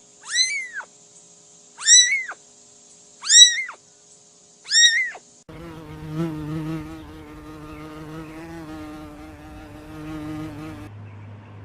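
A kitten meowing four times, high and loud, each meow rising then falling in pitch, about a second and a half apart. It is followed by a quieter, steady, low droning tone lasting about five seconds.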